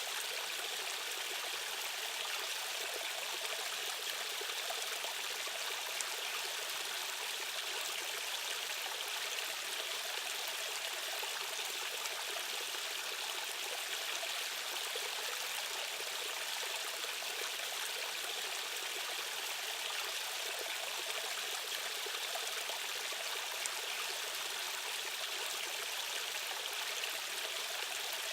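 Stream water running steadily over rocks, an even rushing and burbling with no breaks.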